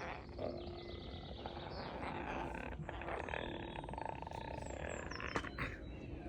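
Pet parrot vocalising: a buzzy, rasping sound, with a few short high whistles about five seconds in.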